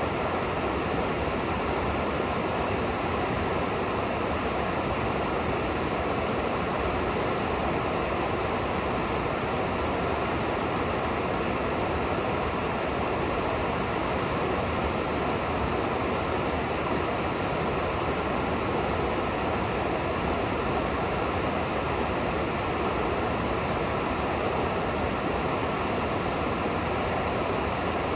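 A river's water rushing steadily, an even unbroken wash of sound.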